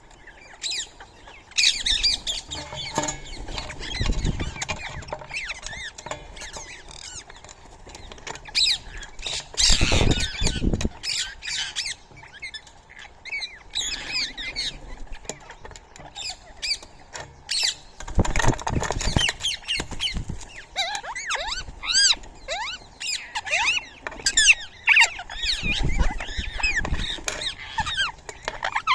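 Birds chirping and squawking at a feeding spot, many short calls overlapping. There are a few louder bursts of wing flapping, the strongest about ten seconds in and again a little past the middle.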